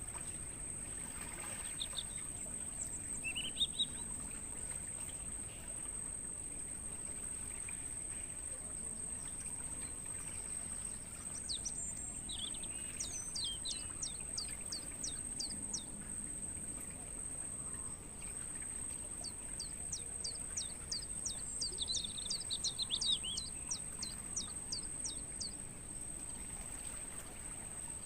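Crickets trilling in one steady, unbroken high-pitched tone. Over it a small bird calls in two runs of rapid, sharp down-slurred notes, about three a second, with a few scattered chirps.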